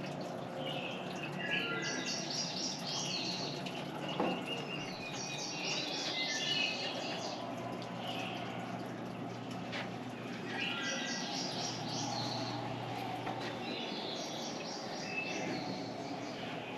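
Birds singing: high, trilling song phrases come about every four seconds, four in all, over a steady low hum that stops near the end.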